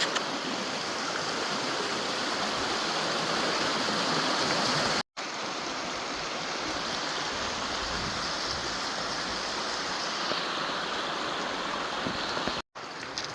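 A river's water flowing steadily, an even rush of current, cut off twice for an instant.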